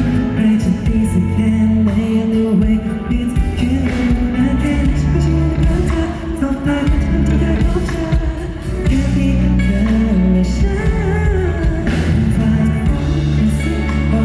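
A Thai pop song performed live through a concert sound system: a male voice singing over loud amplified backing music with heavy bass.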